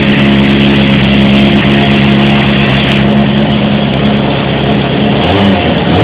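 2005 Honda CBR600RR's inline-four engine idling steadily while it warms up after a cold start, with a short blip of the throttle near the end. The sound is heard through a phone's microphone.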